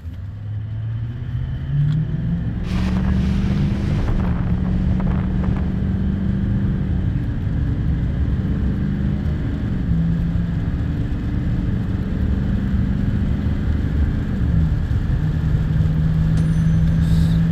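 2019 GMC 3500's 6.6 Duramax turbodiesel V8 at full throttle, accelerating from a stop while towing a loaded trailer. Its pitch climbs, drops back at each automatic upshift (about four times), then climbs again.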